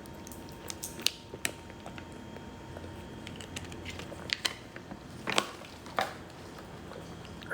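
Scattered small clicks and light crunches, with a few louder knocks about four and a half, five and a half and six seconds in, over a faint steady hum.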